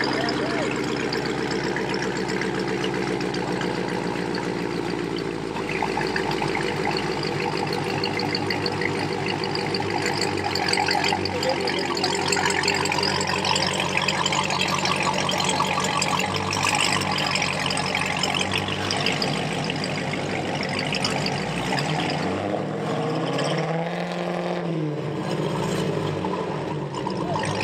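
A car engine running steadily, its pitch climbing and then dropping once near the end.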